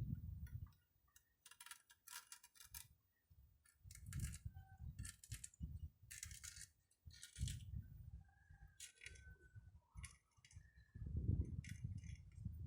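Small metal parts clinking and scraping as hose fittings are handled and a sleeve is worked onto a thick hydraulic hose, with scattered clicks and several dull knocks and rumbles of handling.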